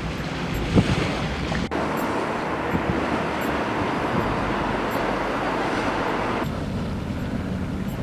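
A steady rushing noise, its tone changing abruptly about two seconds in and again near the end.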